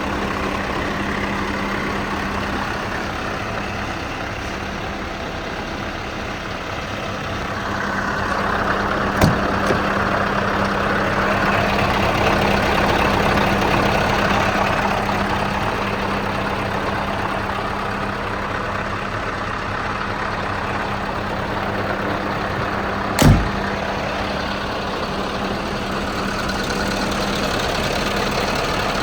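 Scania R560's V8 diesel engine idling steadily, growing a little louder for a few seconds around the middle. Two short sharp knocks, one about a third of the way in and a louder one past two-thirds.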